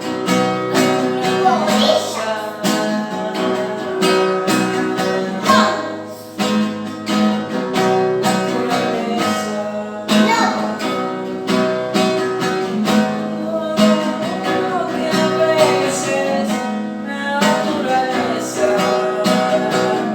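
Acoustic guitar being strummed and plucked in an improvised piece, playing steadily.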